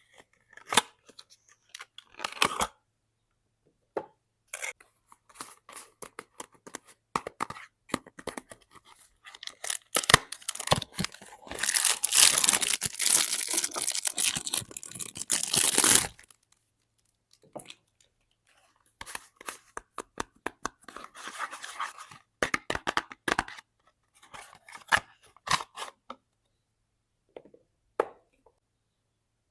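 Soap packaging being opened and unwrapped by hand: scattered crinkles and clicks, with one long, loud stretch of tearing near the middle, then more light handling of the wrapper.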